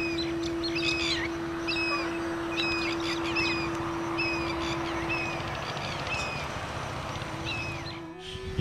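A bird calling, a series of short whistled notes repeated about every half second, growing sparser toward the end.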